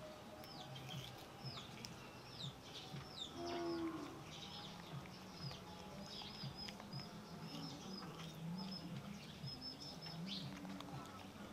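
Small birds chirping, a quick string of short high chirps repeated over and over, with a brief lower-pitched call about three and a half seconds in.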